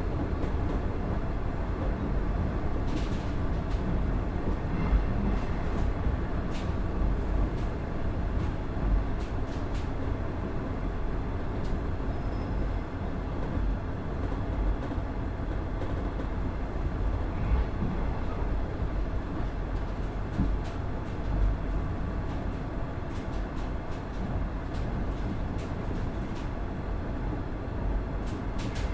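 Steady running noise heard inside a KiHa 110-200 series diesel railcar with a Cummins DMF14HZA engine, as the engine and the wheels on the rails carry the car along. Scattered faint clicks sound over it.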